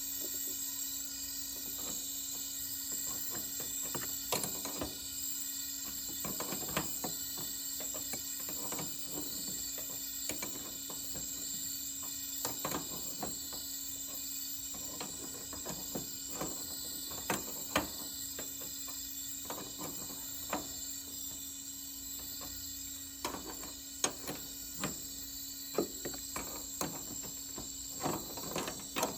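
Scattered light clicks and knocks, more of them near the end, over a steady low hum.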